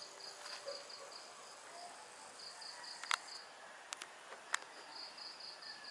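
Insect chirping: a high, even pulse about five times a second that pauses briefly twice, with a few faint sharp clicks.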